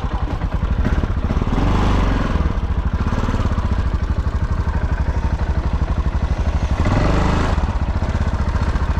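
Off-road motorcycle engine ticking over with a regular firing beat, revved briefly twice, about two seconds in and again near the end.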